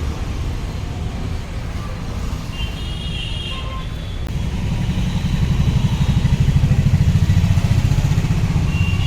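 Street traffic noise with a motor vehicle engine running close by. Its low, rapidly pulsing beat grows louder about five seconds in.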